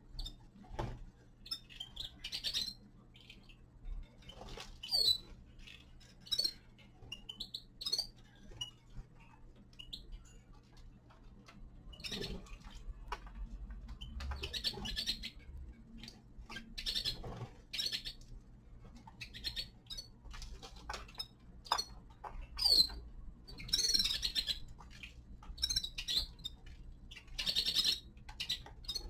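Small finches chirping and calling in short scattered notes, mixed with occasional sharp clicks, over a faint steady low hum.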